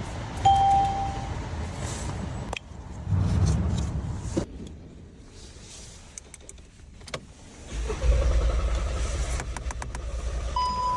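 Sounds from a car: a short electronic beep, clicks and handling noises, and from about eight seconds in a steady low rumble, with another beep near the end.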